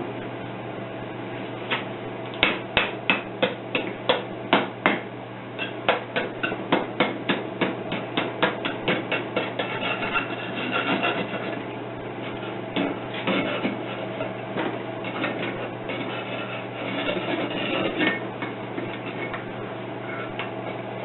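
A row of sharp taps, about three a second, then quicker clicks, then steady scraping and rubbing: mold sand being knocked and scraped off a freshly poured cylinder head casting.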